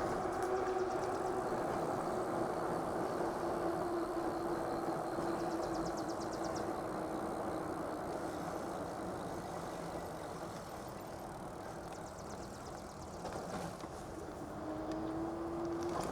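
Electric bike motor whine, one steady tone that slowly drops in pitch as the bike slows. Near the end it climbs again as pedal assist from the torque sensor brings the bike back up to speed. Under it runs a steady rush of wind and tyre noise on a mic with no windshield.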